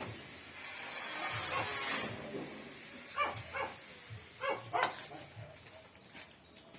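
A hiss lasting about a second and a half, then a dog giving several short yelps, with a sharp click among them.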